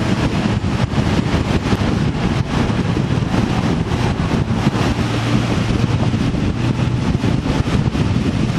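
A vehicle running on the move, with steady wind buffeting the microphone.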